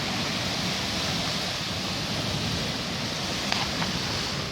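Strong wind storm blowing, a loud steady rush with a couple of faint clicks near the end.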